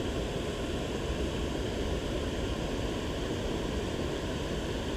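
Steady rushing of running creek water, an even noise with no distinct splashes.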